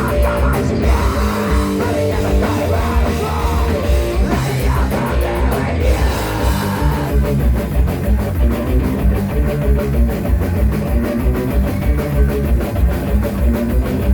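Live rock band playing loudly, with distorted electric guitars, bass and a drum kit. About seven seconds in the drums settle into a fast, even beat.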